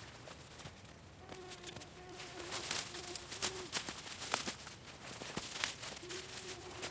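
An insect buzzing close by in stretches of about a second, a steady hum that comes and goes. Through the middle of it come a series of sharp clicks and rustles.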